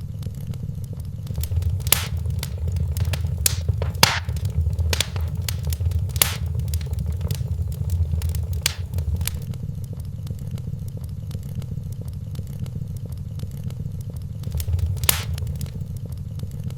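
Wood fire burning in a fireplace: a steady low rumble of flame with sharp crackles and pops, busiest in the first half and thinning out, then one loud pop near the end.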